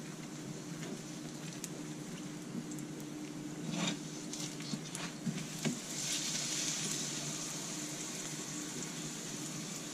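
Aloo paratha frying in ghee on a hot tawa: a steady sizzle that grows louder from about six seconds in, once the paratha has been turned over. A few spoon clicks and scrapes on the tawa come around the middle.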